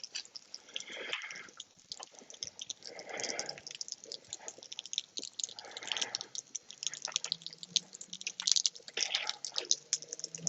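Faint water sounds in a small room: scattered drips and clicks, with soft splashes every two or three seconds.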